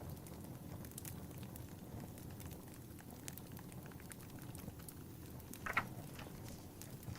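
Wood fire burning in a fireplace: a low steady rumble with scattered small crackles and pops. One louder, brief sound stands out near the end.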